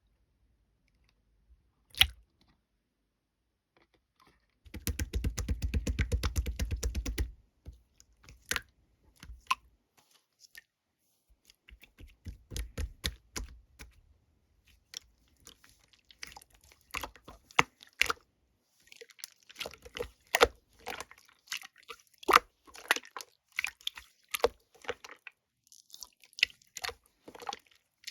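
Sky-blue slime being squished and folded by hand: irregular wet clicks and pops, with a single sharp pop about two seconds in and a fast run of dense crackling around five to seven seconds in.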